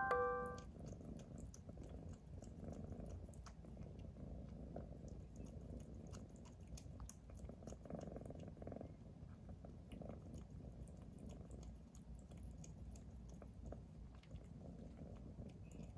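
Minuet kitten purring: a faint, steady low rumble with light clicks over it.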